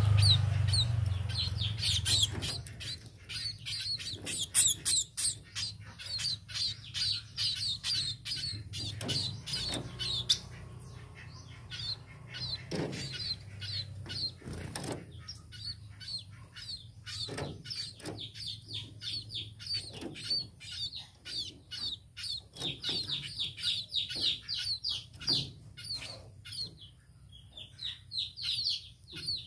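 Pipit birds (munias) chirping: a busy, continuous run of short, high chirps, several a second, with a few sharp clicks among them.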